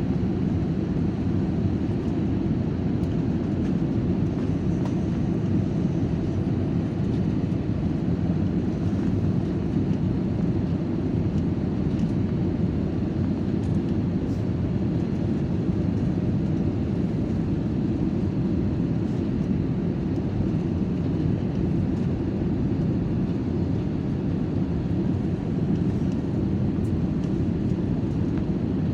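Steady, even rumble of an airliner's engines and airflow heard from inside the passenger cabin.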